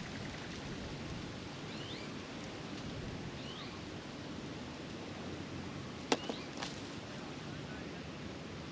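Steady outdoor hiss with a few faint, short, upward bird chirps. A single sharp click sounds about six seconds in.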